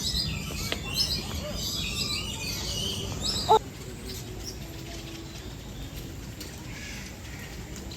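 Many small birds chirping and twittering together. About three and a half seconds in there is one short, loud squawk, after which the chirping thins out to a few faint calls.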